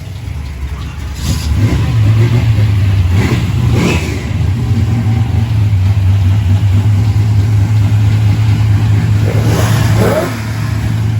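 Car engine running close by with a loud, steady low drone that comes up about a second and a half in and eases off just after ten seconds.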